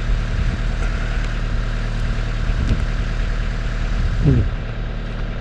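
Steady low engine-like hum running without a break, with a short gliding sound about four seconds in.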